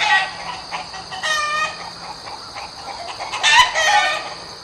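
Domestic hen clucking, with louder drawn-out calls at the start, about a second in, and again past three and a half seconds.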